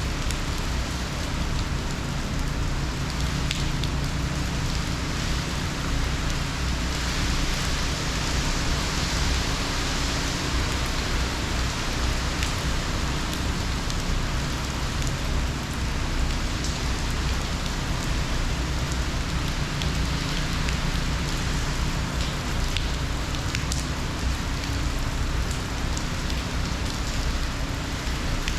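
Heavy hurricane rain falling steadily, a dense even hiss with scattered drop ticks. A steady low hum runs underneath.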